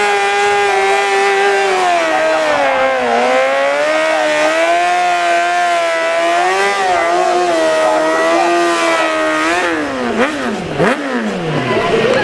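Racing sport bike engines at high revs, the pitch dipping and climbing as the rider shifts and rolls on and off the throttle. Near the end several bikes go by, their pitches sweeping down one after another.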